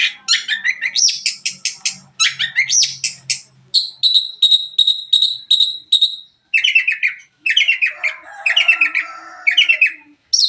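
Long-tailed shrike (cendet) singing a fast, varied song of repeated notes, trills and harsh chattering phrases, filled with imitations of other songbirds. A few seconds in comes a run of evenly repeated notes, then scratchier chatter.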